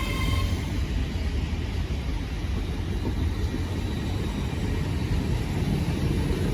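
Hitachi Class 800 train 800207 moving at the platform, a steady low rumble; a faint high whine fades out in the first half second.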